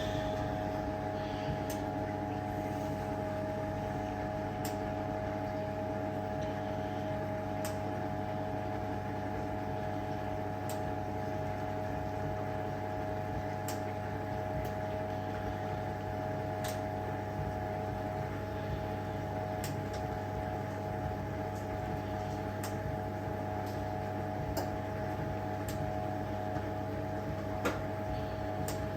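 Hoover 1400 top-loader washing machine draining after its soak: a steady electric motor and pump hum, with a faint click about every three seconds.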